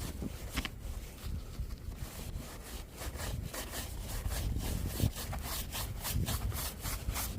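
Snow brush sweeping packed snow off a car's body in repeated strokes, which become quicker and more even, about three a second, from about three seconds in.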